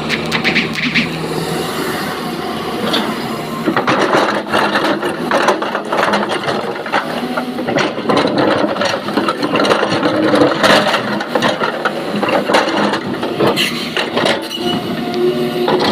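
Excavator at work: its diesel engine runs steadily under irregular clattering and scraping of rock and metal, which grows busier about four seconds in.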